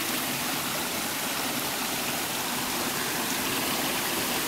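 Water from a jungle spring flowing steadily: a constant, even rush of running water.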